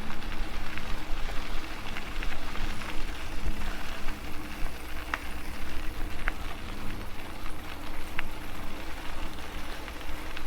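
E-bike in motion on a trail: a steady rushing noise of tyres and air, with scattered small clicks and a faint low hum that comes and goes.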